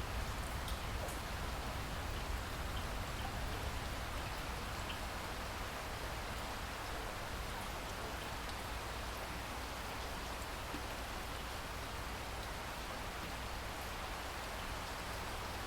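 Steady rainfall: an even hiss of rain with a few separate drops ticking now and then.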